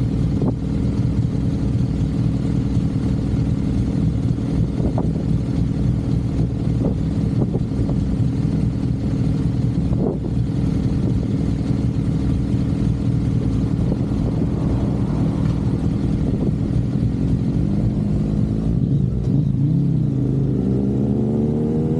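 Suzuki GSX-R750 inline-four engine pulling at a steady cruising speed. In the last couple of seconds the pitch climbs as it accelerates.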